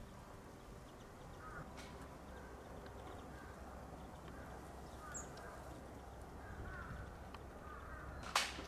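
Faint outdoor ambience with distant birds calling a few short times. A single sharp click or knock near the end is the loudest sound.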